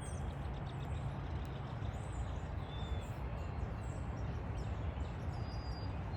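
Steady outdoor background hiss with a low rumble underneath, and a few faint bird chirps, two of them about a third and four-fifths of the way through.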